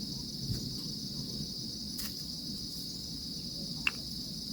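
A steady, high-pitched insect chorus, crickets trilling without a break, over a low background rumble. There is one sharp click near the end.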